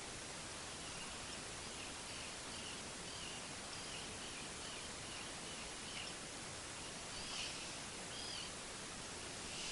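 Small birds chirping faintly in a series of short, wavy notes over a steady outdoor hiss, with a couple of louder calls near the end.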